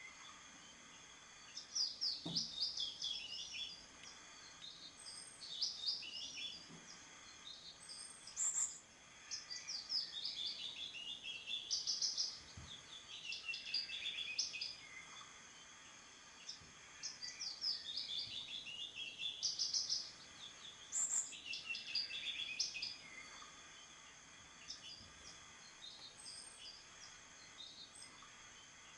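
Birds singing: short, chirping, trilling song phrases repeated every few seconds over a steady faint hiss, growing sparser near the end.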